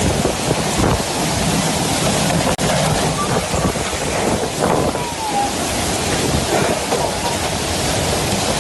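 Storm wind buffeting the microphone, a loud, dense rush with rain or surf mixed in, and faint voices under it.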